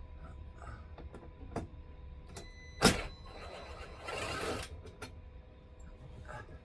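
Cordless drill briefly whirring as it backs out a cover screw, preceded by a sharp clack about three seconds in, with small clicks of handling around it.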